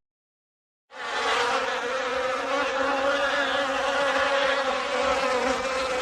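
Bee buzzing steadily at one even pitch, starting about a second in.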